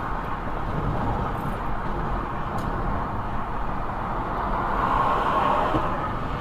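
Steady road and engine noise of a car driving, heard from inside the cabin through a dashcam microphone, swelling slightly about five seconds in.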